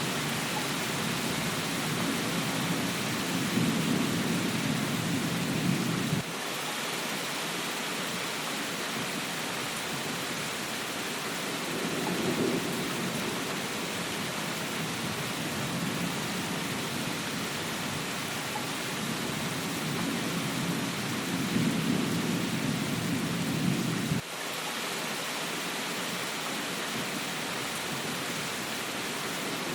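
Steady heavy rain with rolling thunder rumbles that swell and fade; the rumble cuts off abruptly about six seconds in and again late on.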